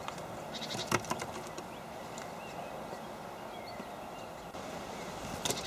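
Steady hiss of a trail camera's microphone with faint bird chirps, and a few sharp ticks and taps about a second in and again near the end.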